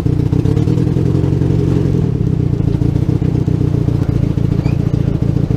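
Boat engine running steadily at a constant speed, a loud, low, pulsing drone.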